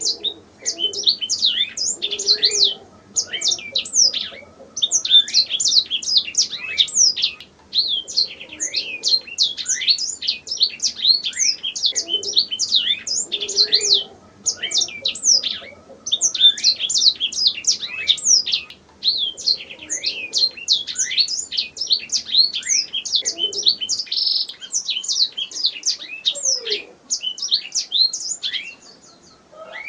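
Domestic canary singing: long phrases of fast chirps and trills, broken by short pauses every few seconds.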